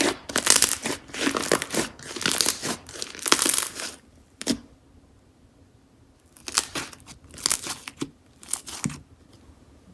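Slime being squeezed and stretched by hand, making crinkly, crackling sounds in quick bursts. It pauses briefly a little after the middle, with a single sharp pop, then a few more bursts follow.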